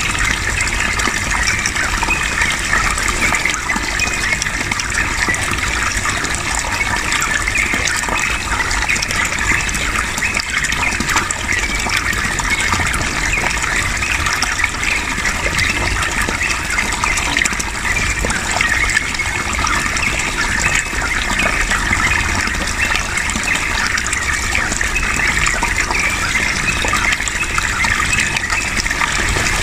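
Steady rush of flowing water with a yellow-vented bulbul's chattering song mixed in, a recording played to lure other bulbuls into singing.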